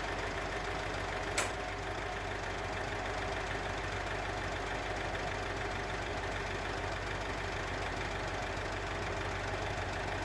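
Mitsubishi Pajero engine idling steadily, with one sharp click about a second and a half in. This is the engine whose knock comes in as it warms up, which the mechanic puts down to a problem inside the engine rather than the injectors.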